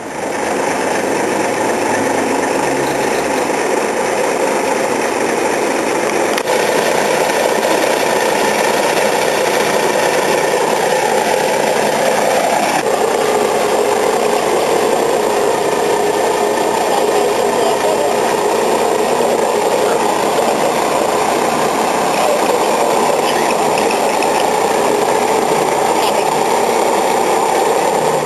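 A large engine running steadily and loudly, with a steady hum that joins in about 13 seconds in.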